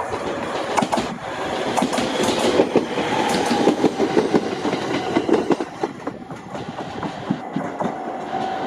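JR East 701 series electric train running close past, its wheels clicking rhythmically over the rail joints over a rumble, with a steady high whine underneath. The clicking is loudest a few seconds in and eases off in the second half.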